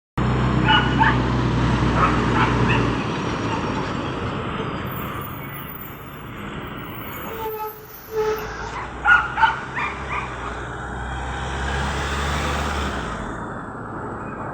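Traffic with a heavy vehicle's engine running low and steady, while a dog barks several times, about a second in and again around eight to ten seconds in.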